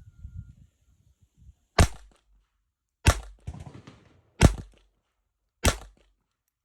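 Ruger LCP II .22 LR pistol firing four single shots, about a second and a quarter apart, with light handling noise between them.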